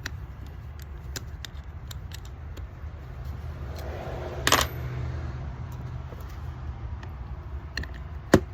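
Metal parts of a car starter motor clinking as it is taken apart by hand: small clicks throughout, a louder metallic clatter about halfway through, and a sharp click near the end.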